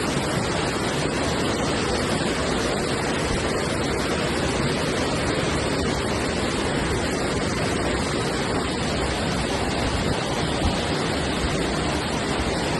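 Rushing floodwater: a steady, unbroken water noise from a swollen river or torrent.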